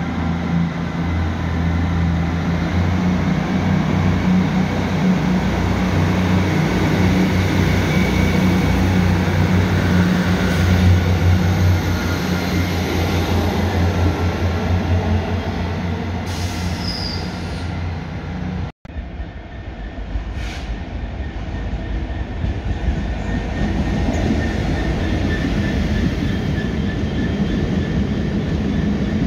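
A Northern passenger multiple unit runs past a platform with a steady low hum, then, after a cut about two-thirds of the way in, a freight train of cement hopper wagons rolls through, their wheels running on the rails.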